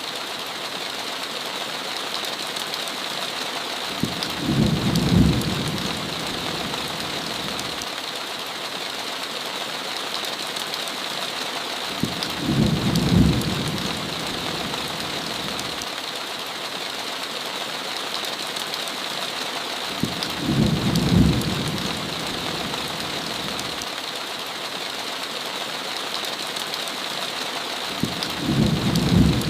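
Steady rain hiss with a short low rumble of thunder about every eight seconds, four times in all.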